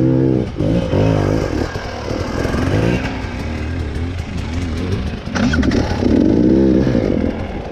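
Off-road motorcycle engine revving up and down unevenly on the throttle, with a sharp knock about five seconds in.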